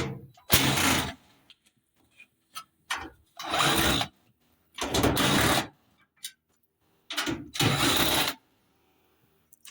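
A power drill/driver run in four short bursts, each spinning up and cutting off, as screws are backed out of the dryer's cabinet.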